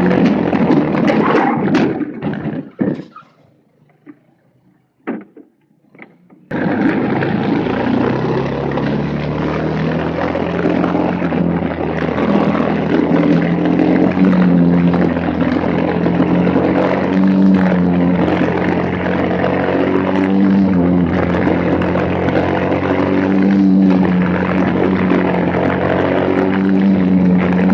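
Racing kart's Briggs & Stratton Animal single-cylinder four-stroke engine running hard, its pitch rising and falling with the throttle. About two and a half seconds in the sound drops away almost to nothing for about four seconds, with a few faint knocks, then cuts back in abruptly.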